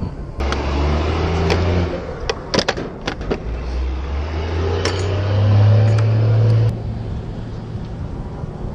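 Suzuki GSX-R750 sport-bike engine revved twice while standing, the second rev held higher for about two seconds and then dropping off sharply, with a few sharp pops or clicks between the revs.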